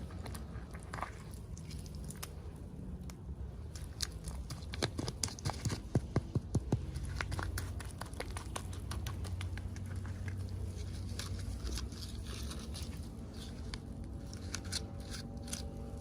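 Small plastic toy packaging and miniature pieces being handled during unboxing: scattered clicks, taps and crinkles, with a quick run of louder clicks about five to seven seconds in.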